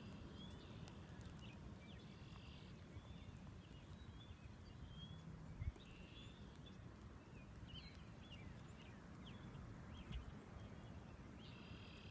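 Faint scattered bird chirps and short calls over a low steady rumble, with one soft thump about halfway through.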